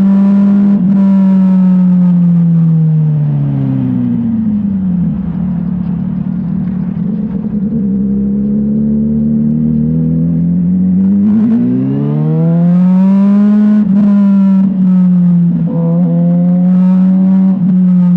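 Motorcycle engine under way. Its note drops as the bike slows about three seconds in, stays low for several seconds, then climbs again as it speeds up, with a few brief breaks in the note near the end.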